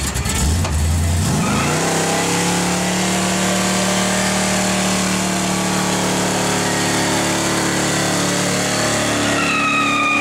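Car doing a burnout: the engine revs up and is held at high rpm while the rear tyres spin on the pavement with a steady hiss. A high-pitched tyre squeal joins near the end.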